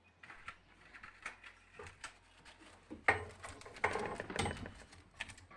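Irregular light clicks and clattering of small hard objects being handled, busiest and loudest about three to five seconds in.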